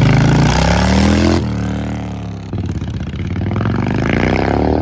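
Kawasaki Mean Streak 1600 cruiser's V-twin engine being revved, loud. The revs climb and fall back about a second and a half in, then climb again.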